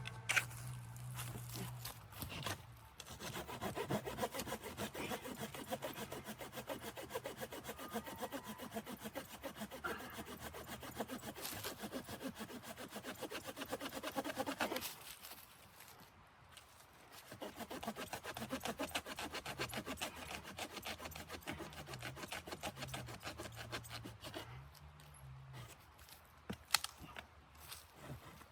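Hand saw cutting through wood in fast back-and-forth strokes, in two long bouts with a short pause between them about halfway through.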